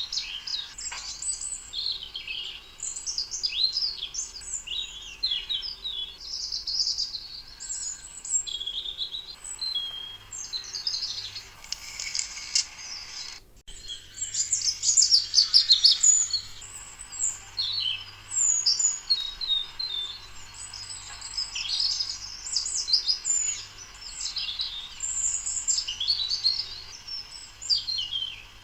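A chorus of many small birds chirping and singing at once, quick overlapping high calls and trills. The sound drops out for an instant about 13 seconds in, then carries on.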